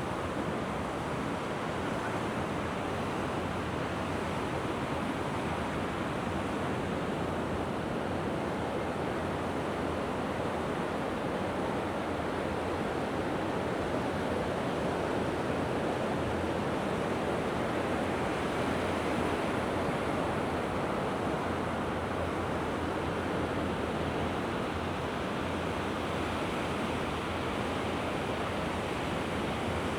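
Mediterranean surf washing ashore: a steady rush of breaking waves that swells a little around the middle.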